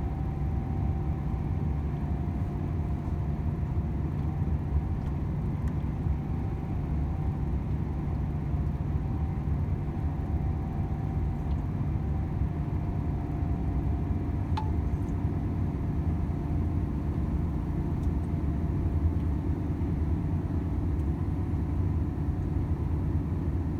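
Volvo FH 500 truck's 13-litre six-cylinder diesel running steadily on the road, a low even drone mixed with road noise and no change in engine speed.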